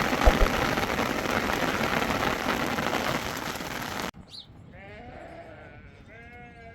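Heavy rain, a dense steady hiss, cuts off abruptly about four seconds in. A few bleats from a flock follow, quieter, several short calls in a row.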